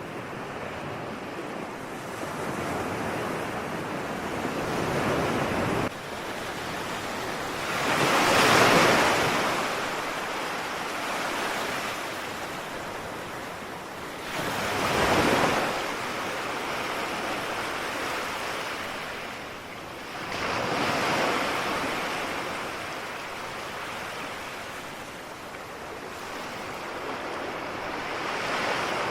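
Ocean waves: a continuous wash of surf with three larger waves surging up and falling away about six seconds apart. The level drops abruptly about six seconds in.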